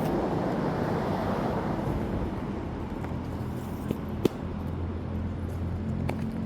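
City street traffic: vehicles passing, with a steady low engine hum from about four seconds in. Two short sharp clicks come just before that.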